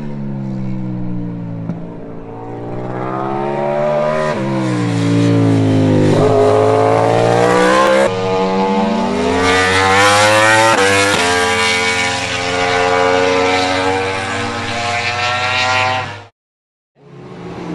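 MotoGP racing motorcycle's four-cylinder engine at high revs on track, its pitch falling and climbing again several times as it shifts gears and accelerates. The sound cuts out abruptly for about half a second near the end.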